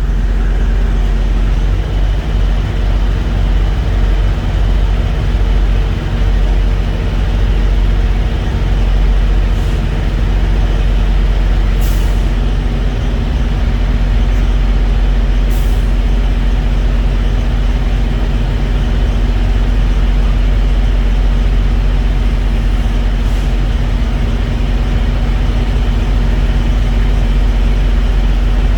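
Heavy diesel truck engine idling steadily, with two brief high hissing ticks around the middle.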